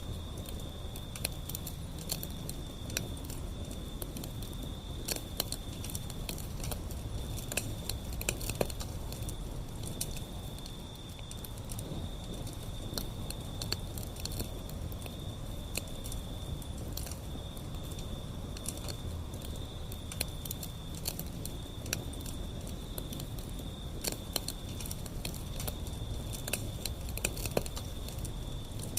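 Wood fire burning, crackling with irregular sharp pops over a low rumble of flames. A steady high-pitched tone runs behind it, breaking off now and then.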